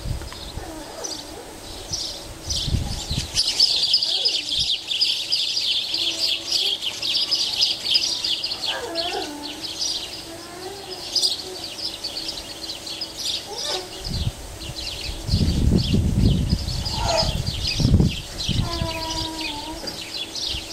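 Birds chirping in a fast, continuous high-pitched chatter, densest in the first half, with a few lower, slurred calls here and there. A low rumbling noise comes in for a few seconds about three-quarters of the way through.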